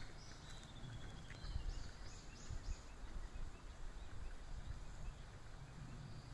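Faint outdoor birdsong: a short falling trill about half a second in, then a quick run of four or five high chirps, over a steady low background rumble.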